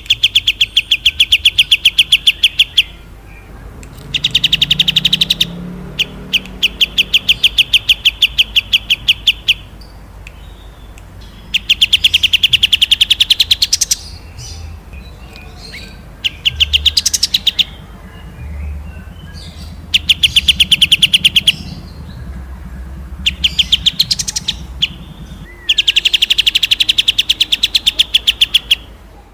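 A small songbird singing rapid rattling trills: bouts of quick, evenly repeated high notes, about ten a second and each bout two to three seconds long, with short pauses between, about eight bouts in all.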